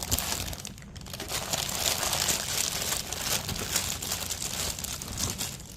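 Plastic packaging crinkling and rustling as a pair of headphones is unwrapped and lifted out of the box, an irregular run of crackles that eases off near the end.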